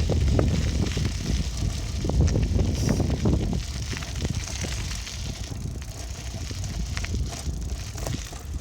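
Bicycle being ridden: a steady low rumble with many short rattling clicks, louder in the first few seconds.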